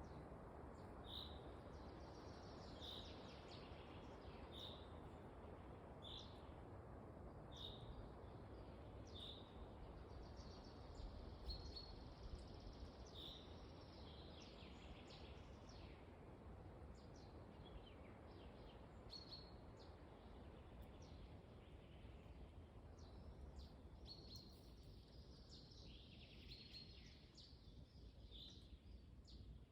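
Faint wind in a forest, a steady low rush, with a bird calling a short high note about once a second for the first third, then scattered chirps from birds.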